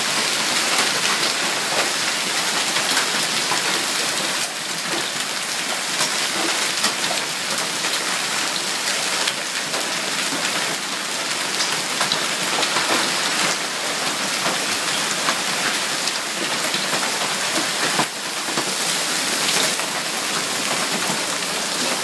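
Large hailstones and rain pelting down hard: a dense, steady hiss with many sharp ticks of hailstones striking.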